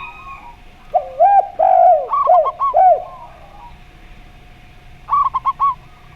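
Zebra dove and spotted dove cooing: a run of about five low, arched coos, then about five seconds in a quicker run of four higher notes.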